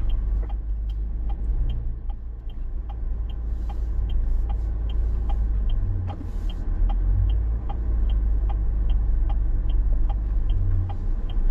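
Vehicle engine running with a steady low rumble, with a light tick repeating about twice a second over it.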